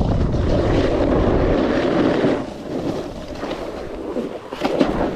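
Wind rumbling on the microphone and a snowboard scraping over snow while riding, easing off about two seconds in, followed by scattered short scrapes.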